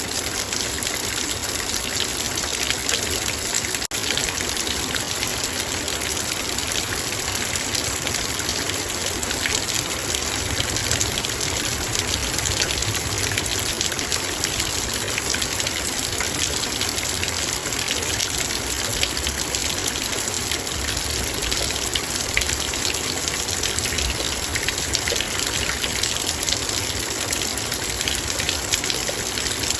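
Heavy rain falling steadily on a metal bowl: a dense, unbroken patter of drops striking the metal.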